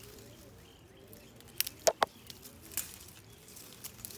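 Domestic pigeons cooing softly in the background as a low, repeated warble. A few sharp snaps stand out about halfway through.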